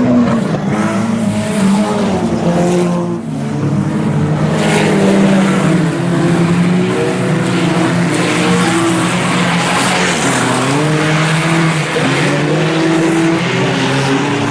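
Several front-wheel-drive IMCA Sport Compact race cars running in a pack, their engines revving up and down with pitches that rise and fall and overlap.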